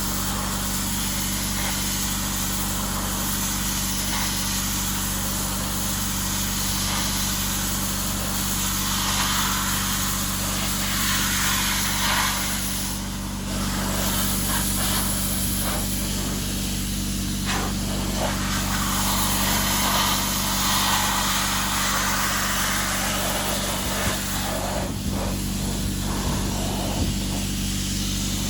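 Abrasive sandblasting: a loud rushing hiss of air and grit from the blast nozzle that swells and drops in several bursts, over a steady low hum from a running machine.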